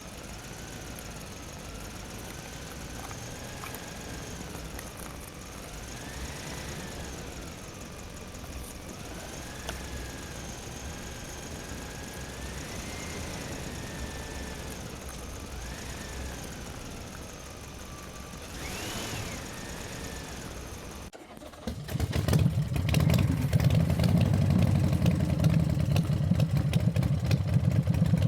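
Mini tractor motors at work. For most of the time a thin motor whine rises and falls in pitch as the load changes. After a sudden cut, a much louder low engine sound runs steadily with a rapid throb.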